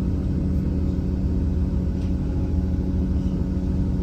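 Diesel passenger train running at speed, heard from on board: a steady low rumble of engine and wheels on the track with a constant engine hum.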